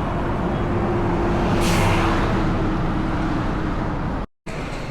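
Road traffic noise: a steady vehicle rumble and hum, with a brief hissing rush about two seconds in.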